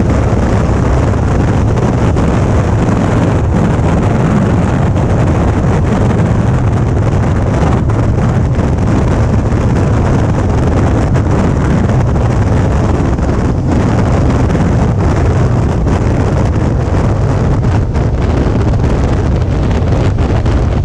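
Steady wind noise rushing over the microphone at riding speed, with a Suzuki V-Strom 650's V-twin engine running evenly underneath as the motorcycle cruises.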